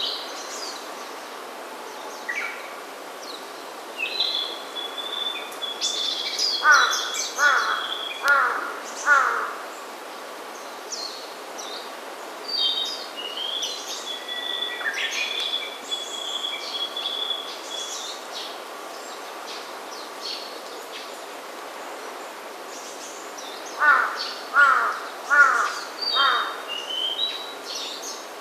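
Crow cawing in two runs of about four caws each, one about a quarter of the way in and one near the end, while smaller songbirds sing high, thin warbling songs and held whistles between them.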